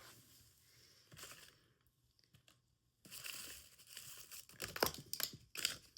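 Crinkling and rustling of fireworks packaging being handled, with a few sharp clicks in the last second or so.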